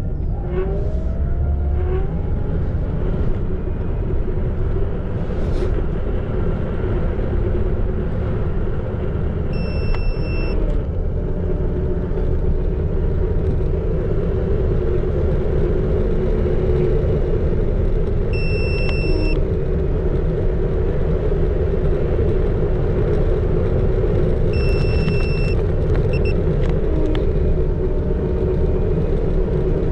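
Xiaomi Electric Scooter 4 Pro riding along a road: steady wind and tyre rumble with a constant motor hum. Three short high electronic beeps sound about ten, eighteen and twenty-five seconds in.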